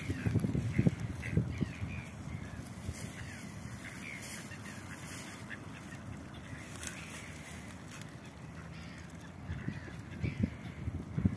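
Short bird calls scattered throughout, around a pair of mallards feeding on the ground. A few soft low thumps come near the start and again near the end.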